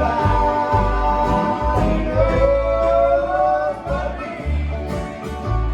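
Country-bluegrass band music: a voice singing held, wavering notes over guitar, with steady low bass notes underneath.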